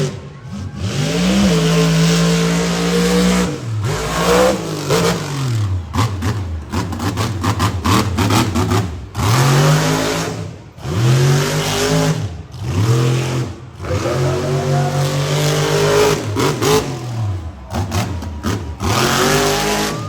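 Monster truck's supercharged V8 revved hard again and again, the pitch climbing and falling with each stab of throttle and dropping off briefly between bursts. A run of sharp cracks comes about six to nine seconds in.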